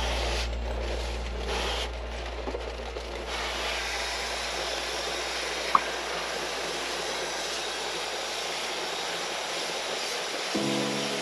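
Steady hiss of water spray from an air-conditioner cleaning pump, over a low motor hum that fades away near the end.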